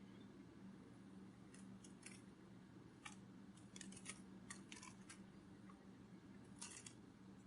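Near silence: faint, irregular dry clicks and crackles in small clusters, over a steady low hum.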